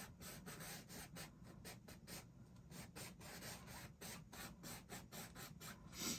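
Paintbrush brushing over canvas in quick, repeated short strokes, about three a second, faint scratchy rubbing.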